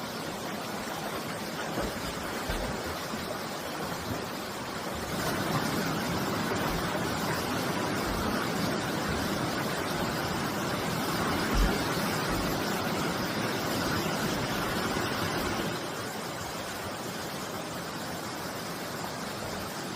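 Mountain stream water rushing over rocks, a steady noise that swells louder for about ten seconds in the middle, with a few dull low thumps.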